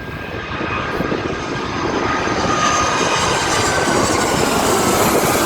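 Jet airliner engines running loud, the roar building over the first couple of seconds and then holding, with a faint whine sliding slowly down in pitch.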